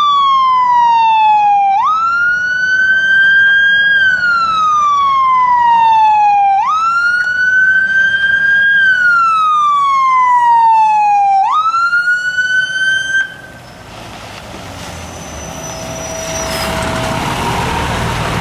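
Fire engine siren wailing. Each cycle jumps up quickly, climbs, then falls slowly, and lasts about five seconds. The siren cuts off about 13 seconds in, leaving the rumble of a heavy truck, which grows louder near the end.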